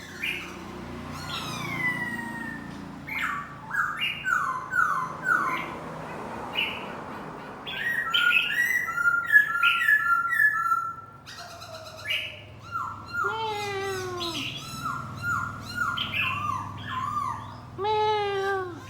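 Laughingthrush singing: a varied run of clear whistled phrases, many notes sliding downward and given in quick series of four to six repeats.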